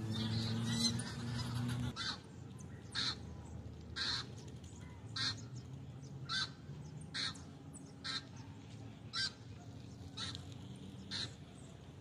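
A bird calling in short, sharp notes repeated about once a second. In the first two seconds a louder, low pitched sound runs and then cuts off abruptly.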